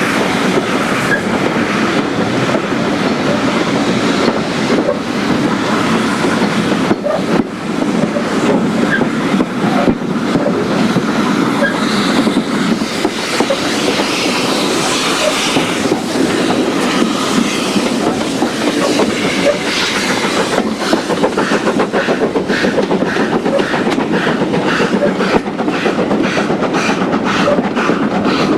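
Steam-hauled passenger train running along: carriage wheels rumble and clickety-clack over the rails behind a 2-8-0 tank locomotive. A regular beat becomes clearer in the last third.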